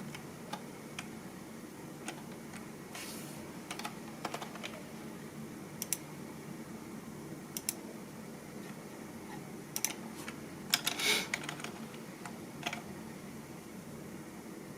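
Typing on a computer keyboard: irregular keystroke clicks with short pauses between them, and a quick flurry of keys a little under two-thirds of the way through.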